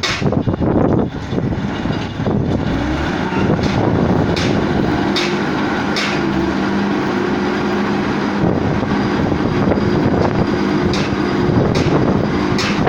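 Heavy cargo-handling machinery running: a steady engine hum that settles about two seconds in, with short sharp clicks or knocks now and then.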